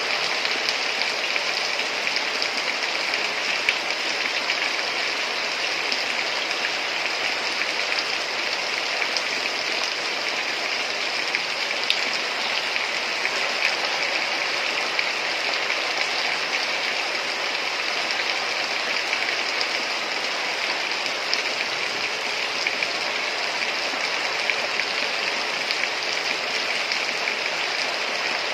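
Heavy rain falling steadily, a dense even hiss with fine patter of drops.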